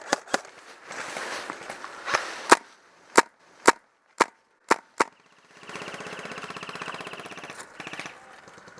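Airsoft guns firing: about nine single sharp shots spread over the first five seconds, then a rapid-fire burst lasting about two seconds.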